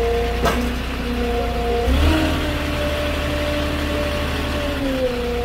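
Forklift engine running, revving up about two seconds in, holding higher, and settling back near the end. A sharp knock comes about half a second in.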